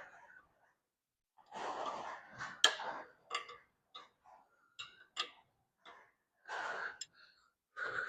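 A man breathing hard with effort, with a few sharp clicks and knocks, the loudest about two and a half seconds in, as the split halves of a Farmall C tractor are worked back together at the clutch splines.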